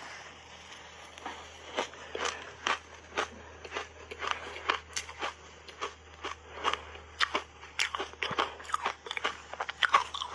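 Crunchy shaved ice heaped with matcha and milk powder being bitten and chewed: a rapid, irregular run of sharp crunches, several a second.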